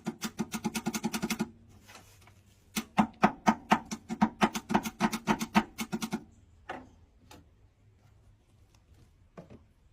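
The 1968 Thunderbird's starter cranking its 428 V8 slowly, about five pulses a second, in two bursts without the engine catching. It is a sign of a weak starter drawing heavily.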